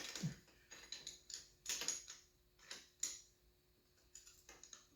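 Ratchet wrench with a 12 mm socket clicking in short irregular strokes, roughly two a second, as it works on the KTM 125SX's cylinder nuts, which are tighter than they should be.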